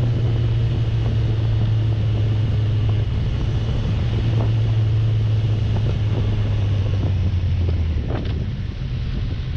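Motorcycle engine running steadily under wind noise on the microphone, the engine note dropping a little lower near the end.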